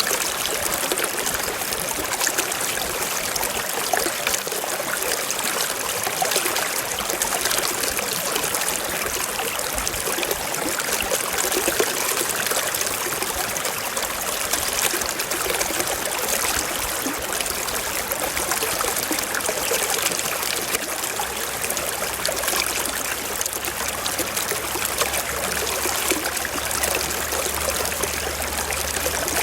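Small forest stream flowing and trickling over rocks in an even, unbroken rush.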